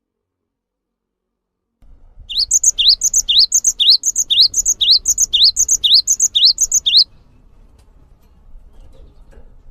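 A songbird repeating a short high phrase, a quick rising note followed by a higher note, about two phrases a second for roughly five seconds; it starts after about two seconds of silence and stops suddenly.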